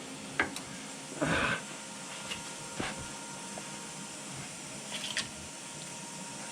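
A few scattered clicks and a short rustling scrape over a steady background hum, the scrape the loudest about a second in.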